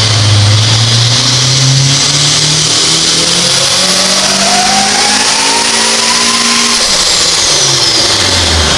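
Supercharged Honda Civic Si four-cylinder at full throttle on a dyno, revs climbing slowly with a rising supercharger whine. About seven seconds in the throttle closes and the engine winds down.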